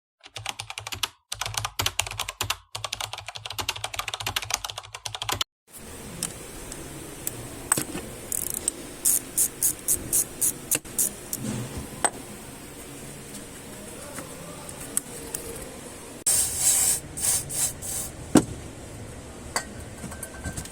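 Rapid, dense clicking and tapping for about five and a half seconds, then a steady hiss with scattered clicks and taps, including a short run of about two clicks a second and a later cluster.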